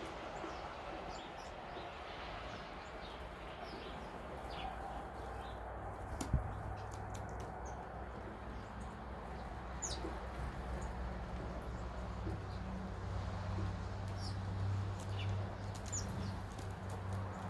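Small birds giving scattered short chirps and quick falling call notes, over a steady low rumble that grows stronger in the second half, with one sharp knock about six seconds in.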